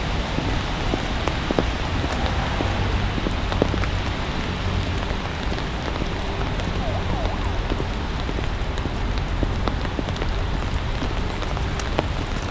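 Sleet and rain falling in a steady hiss, with many scattered sharp ticks of drops and a low rumble underneath.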